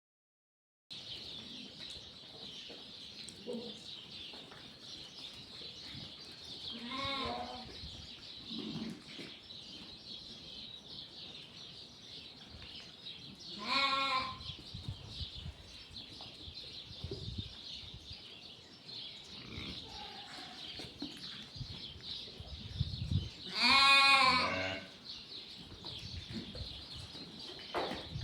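An animal calling three times, each a drawn-out wavering cry, the last and loudest near the end, over a steady high hiss.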